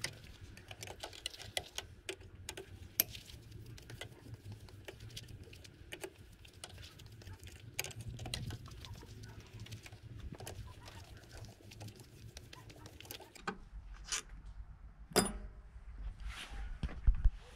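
Scattered clicks, clinks and light knocks of metal engine parts and hand tools being handled while a Yamaha YZF-R1 engine is taken apart, with a faint low hum underneath.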